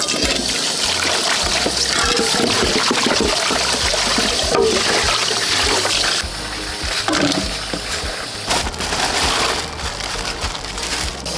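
Water gushing and splashing, dense and steady for about six seconds, then more uneven.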